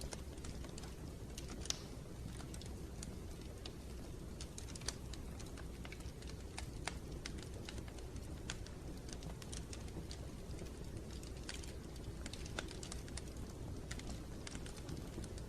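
Wood fire crackling in a fireplace: a steady low rumble of the flames with scattered sharp snaps and pops, two louder pops in the first five seconds.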